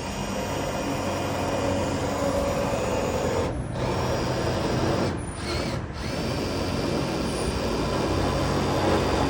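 DeWalt impact driver driving a self-tapping screw, running in long bursts with three brief stops, about three and a half, five and six seconds in.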